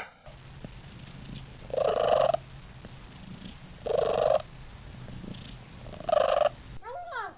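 Domestic cat purring steadily, with three loud pitched calls about two seconds apart, then a short rising-and-falling meow-like call near the end.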